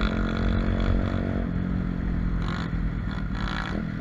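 Pit bike engine running steadily while riding, its note shifting slightly about one and a half seconds in.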